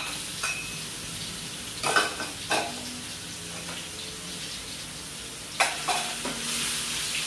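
Shallots, garlic and sliced red chilies sizzling in hot oil in a steel wok, the spice base being sautéed until fragrant. A metal spatula clinks sharply about four times as the chilies go in and the pan is stirred.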